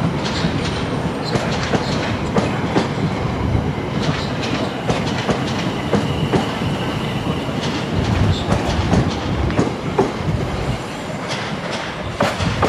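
South Western Railway electric multiple unit running past close along the platform, its wheels clattering over the rail joints, with a faint high whine in the middle.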